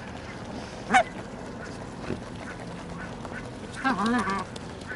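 Geese honking: one short sharp call about a second in and a longer, wavering call near the end, over a steady background hum of birds and water.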